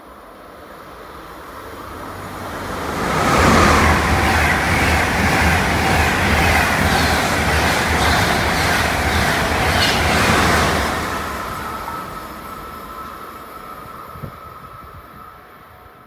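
Deutsche Bahn ICE high-speed train passing through a station without stopping: a rush of wheel and air noise that swells over about three seconds, stays loud for about eight seconds with a run of wheel clicks as the cars go by, then fades as the train moves away, leaving a faint high whine.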